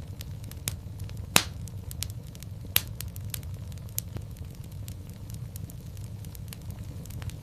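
Fireplace fire crackling, with scattered sharp pops over a steady low rumble; the two loudest pops come about a second and a half in and near three seconds.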